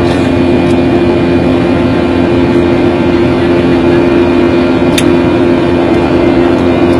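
Airliner cabin noise: the engines running steadily in flight, a loud even rush with a constant low hum. A single brief click about five seconds in.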